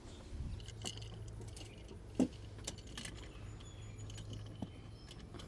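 Scattered light metallic clinks and rattles of hand tools and a hose clamp being worked in an engine bay during hose refitting, with one sharper knock about two seconds in.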